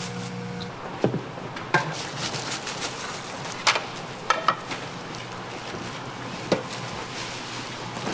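Scattered knocks and clinks of kitchen utensils, about six in eight seconds, some ringing briefly like metal, over a steady low hum.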